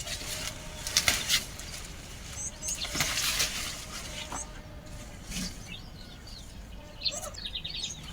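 Leafy garden plants being pulled up and handled, with the leaves rustling and stems crackling in scattered bursts. Birds chirp briefly, with a quick run of high notes near the end.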